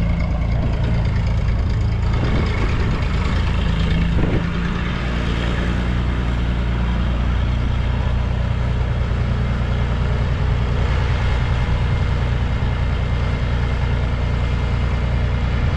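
A vehicle engine running steadily with a deep, low drone, with a brief change in its note about four seconds in.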